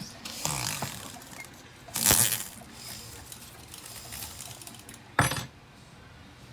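Small metal tools and pieces handled on a jeweler's workbench: a few short clinks and knocks, the loudest about two seconds in and another about five seconds in.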